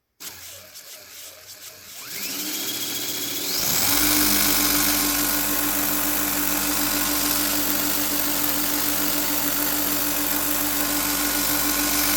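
Small belt-grinder knife sharpener, driven by a 3/4 hp DC sewing-machine motor, starting up: a whine rises in pitch over about two seconds as it comes up to speed. It then runs steadily at speed with the belt hissing.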